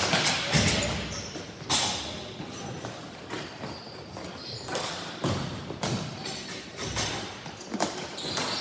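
Ball hockey play: irregular sharp knocks and thuds of sticks striking the plastic ball and the ball hitting the boards, about one to two a second, with music playing underneath.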